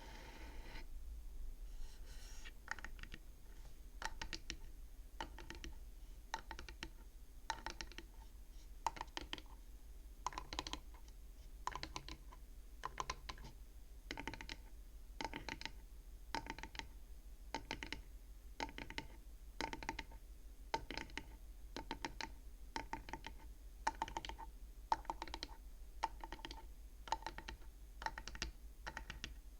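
Light tapping on the wooden frame of a bead counting abacus: quick, sharp, irregular taps, about two or three a second, starting a couple of seconds in after a short stretch of scratching on the wood.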